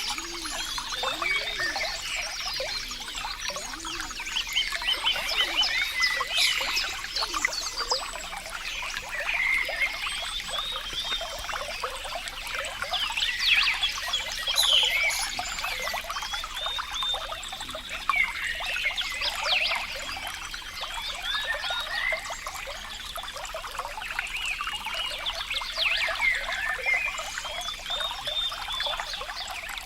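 Water trickling and gurgling continuously, like a small stream running over stones.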